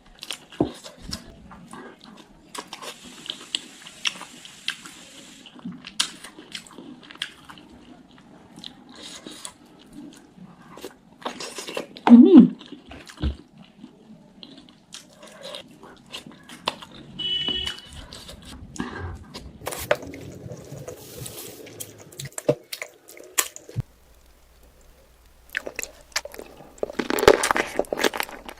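Close-miked eating of spicy chicken feet: chewing and biting with wet mouth clicks and crunches. A short, much louder sound comes about twelve seconds in.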